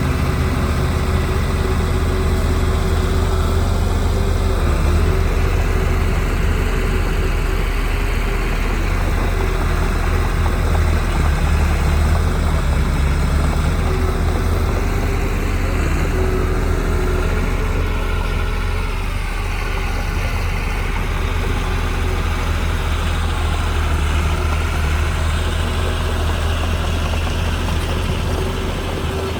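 Heavy diesel engine of earthmoving equipment running steadily, with a brief wavering change in pitch about two-thirds of the way through.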